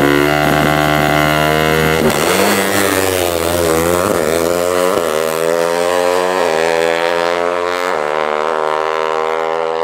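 KTM drag bike's engine running at a near-steady speed, with a few brief wobbles in pitch, then dying away just after the end.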